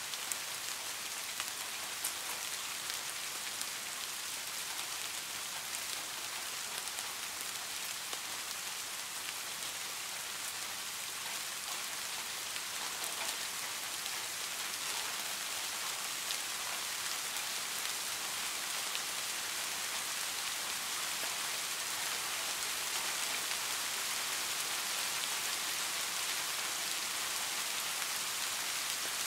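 Steady rain falling, an even hiss with scattered drop ticks, growing slightly louder in the second half.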